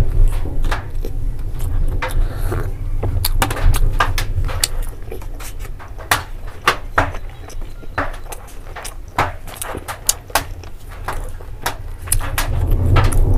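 Close-miked chewing: many sharp wet clicks and smacks from a mouth eating, several a second, over a steady low rumble of rain on a metal roof.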